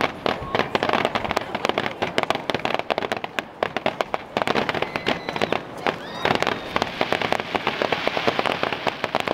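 Fireworks crackling and popping in rapid, dense bursts of many small reports, thickening into an almost continuous crackle about six seconds in.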